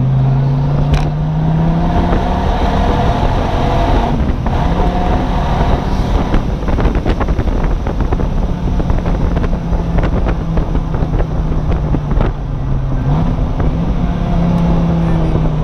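Dodge Viper SRT-10's 8.3-litre V10 pulling through the gears in the open cockpit, with wind rushing over the microphone. The engine note climbs gradually for the first couple of seconds, then holds steady, and the revs jump up suddenly near the end.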